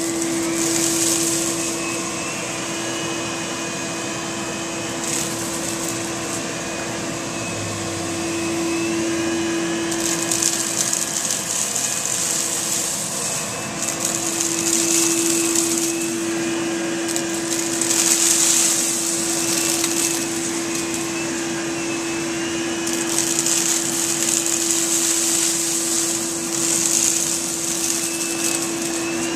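Vacuum cleaner running, a steady hum with a hiss of rushing air that swells and fades every few seconds.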